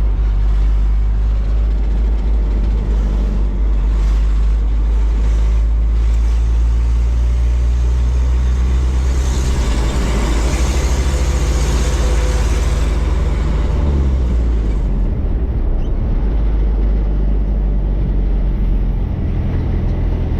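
Truck engine running steadily while driving, with a rushing noise that swells and fades mid-way. A little past halfway the engine note drops and changes, as when easing off or shifting gear.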